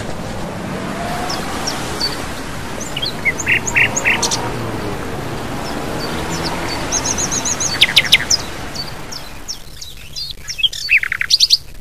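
Small birds chirping and tweeting in short calls and quick trills over a steady background hiss; the hiss falls away near the end, leaving a faint low hum under the chirps.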